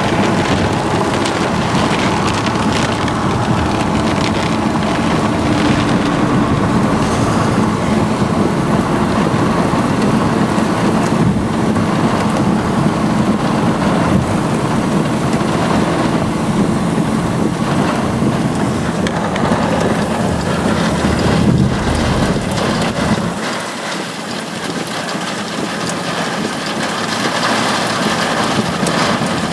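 Heavy rain on a moving car, with wet tyre and road noise as it drives through a thunderstorm. The low rumble drops away suddenly about three quarters of the way through.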